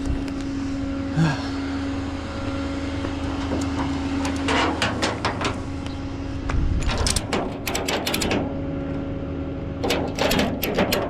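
A truck engine running steadily with a constant drone, under several short runs of metallic clinks and rattles about halfway through and near the end.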